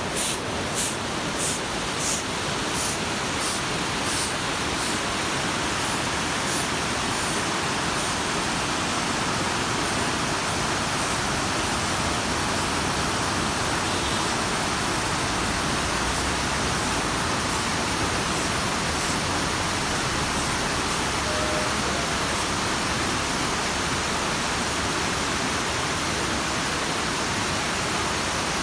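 Rawana Falls' waterfall rushing steadily. A regular ticking, about one tick every 0.7 s, runs through the first several seconds and fades away.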